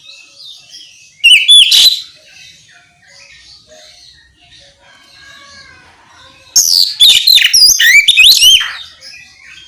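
Oriental magpie-robin (kacer) singing loud bursts of quick, rising and falling whistled notes: a short phrase about a second in and a longer one from about six and a half seconds. Softer, continuous high chirping runs underneath.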